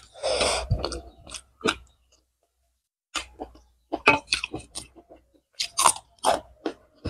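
Close-miked chewing and wet mouth sounds of a person eating rice and chicken curry by hand, in quick clicky bursts, with a pause of about a second in the middle.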